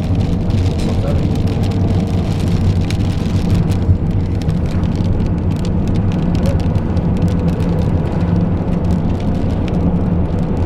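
A car's engine running steadily, heard from inside the cabin, with scattered raindrops ticking on the roof and windows.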